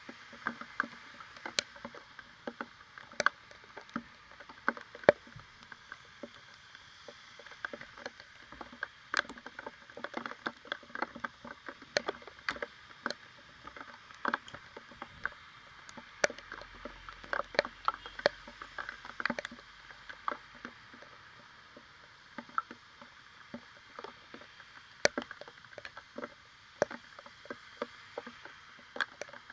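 Raindrops tapping irregularly on a rear-mounted action camera's housing, several a second, over a steady hiss of rain and road spray.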